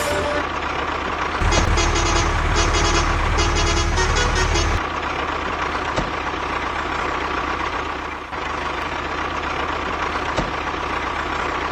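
Truck engine running steadily with a held tone over a low rumble; the rumble grows heavier for a few seconds about a second and a half in, then settles back.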